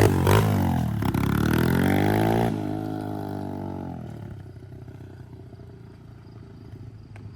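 Dirt bike with a swapped-in 140cc engine accelerating away: the engine note rises, drops at a gear change about two and a half seconds in, rises again, then fades into the distance.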